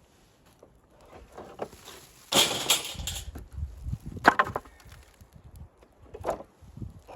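Old wooden boards being handled: a scraping rush of wood on wood lasting about a second, then two sharp wooden knocks.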